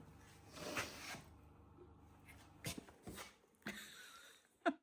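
Faint rustling and a few soft knocks of handling in a small room, with a brief squeak just before the sound cuts off.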